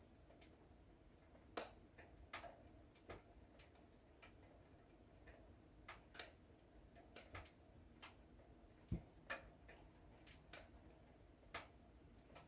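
Wood fire in a fireplace crackling, with irregular sharp pops and snaps, a few each second, over a faint steady background; the loudest pops come a little over a second in and about three quarters of the way through.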